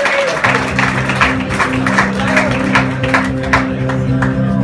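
Live rock band music starting up about half a second in: a sustained chord held over a steady beat of sharp strikes.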